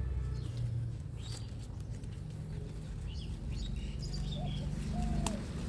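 Birds chirping, with a few short lower calls near the end, over a low steady hum. One sharp click about five seconds in.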